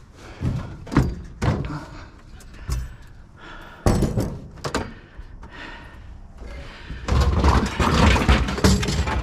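Scrap items being handled and set down in a truck bed: a series of separate knocks and clunks, a sudden loud hit about four seconds in, then a dense run of clattering and rumbling in the last two seconds.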